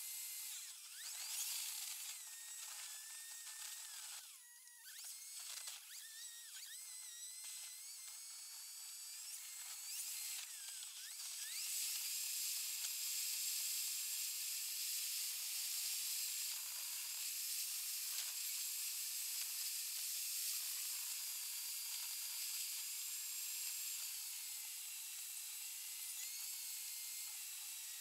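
A car's engine and road noise sped up 36 times, turned into a high-pitched whirring whine. Thin tones glide up and down with the changing engine speed, and the whine grows louder about 11 seconds in.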